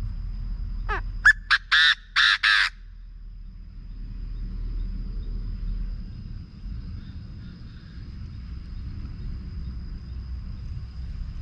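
Chinese francolin calling once, about a second in: a rising note and then four quick, loud, harsh notes, the whole phrase under two seconds, over a steady low rumble.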